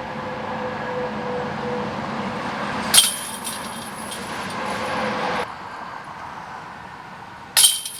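A golf disc strikes the metal chains of a disc golf basket twice, about three seconds in and again near the end, each a sharp clank followed by a brief jingling rattle. Under the first, a steady traffic-like rumble cuts off abruptly about five seconds in.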